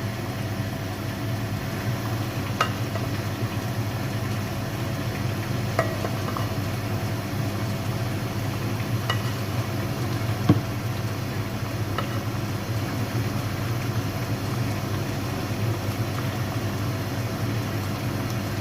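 A spoon clinking and scraping against a casserole dish a handful of times as the chicken-and-vegetable filling is spread over lasagna sheets, over a steady low hum.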